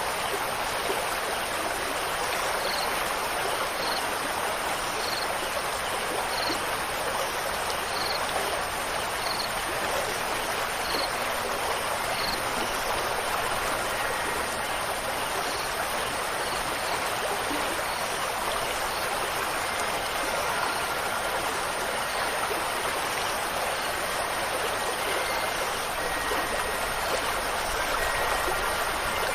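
Steady rushing of flowing water, like a stream. Over it, a short high note repeats about once a second for the first ten seconds or so, and a few faint held tones sound near the end.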